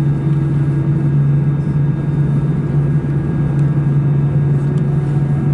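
Cabin noise of an Airbus A319-111 with its CFM56 engines running: a loud, steady low drone with an even rush of air and no change in pitch.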